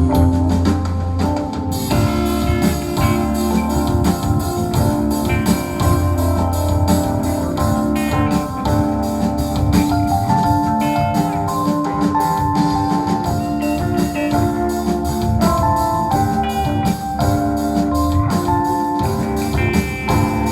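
Live band playing an instrumental passage at a sound check: held keyboard notes over bass and a steady drum beat.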